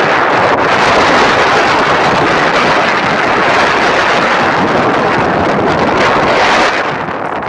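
Strong wind buffeting the microphone: a loud, steady rushing that eases a little near the end.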